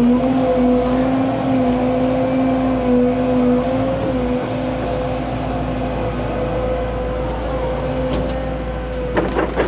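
Diesel engine of a piece of heavy earthmoving equipment running steadily while working dirt, a constant drone with a steady whine over it.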